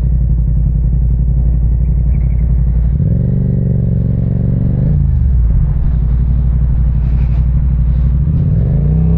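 Parallel-twin motorcycle engine running at low revs, picking up with a rising pitch about three seconds in, dropping off sharply around five seconds, then briefly rising and falling again near the end.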